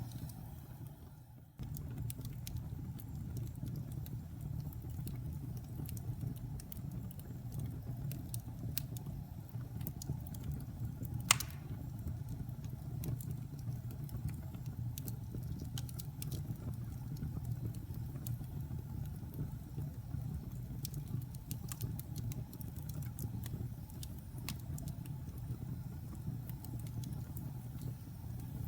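Wood fire burning in a fireplace: a steady low rumble of flame with scattered small crackles and one sharp pop about eleven seconds in. The sound dips briefly and cuts back in about a second and a half in.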